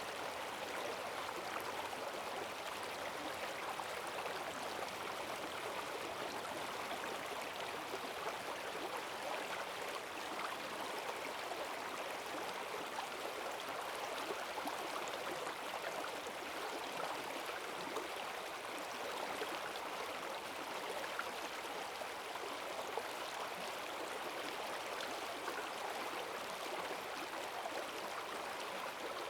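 Forest stream running high after heavy rain, a steady rush of water over its bed with fine splashing and gurgling.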